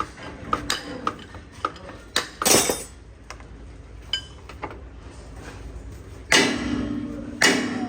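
Metal tools and gearbox parts clinking and knocking as they are handled, with a few louder strikes on metal. The two loudest come near the end and each rings on briefly.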